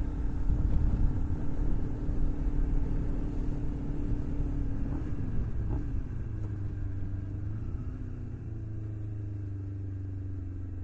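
Motorcycle engine running at low speed under a heavy low rumble of wind. About halfway through, the engine note drops as the bike slows, then settles to a steadier, lower note.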